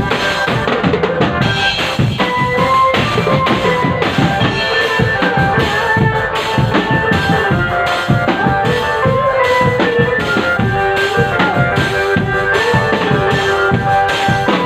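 Drum band playing live: bass drums and snare drums keep a steady, busy beat under a melody of held notes.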